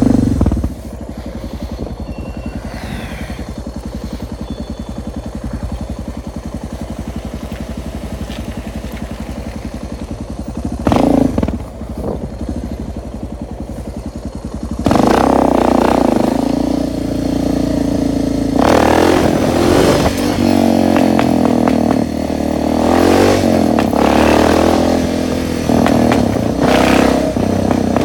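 Suzuki DR650's single-cylinder four-stroke engine running steadily at low revs, with a short throttle blip about eleven seconds in. Halfway through it gets louder and revs up and down repeatedly as the bike accelerates.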